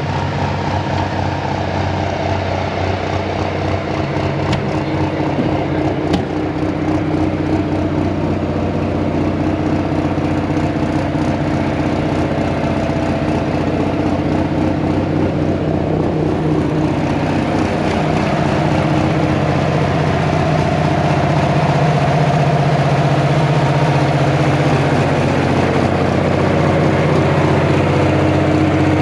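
Compound-turbo, alcohol-fuelled pulling tractor engine running at a steady speed, its pitch shifting and its level rising slightly about 17 to 20 seconds in.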